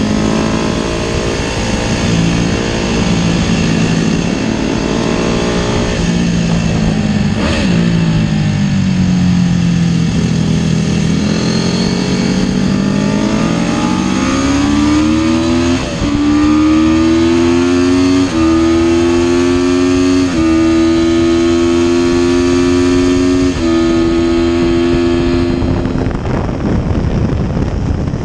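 Paton 500 GP racing motorcycle engine heard onboard at race speed. The note falls as the rider slows, then climbs hard under acceleration with four upshifts, each a brief dip and drop in pitch. Near the end the rider eases off and the note fades.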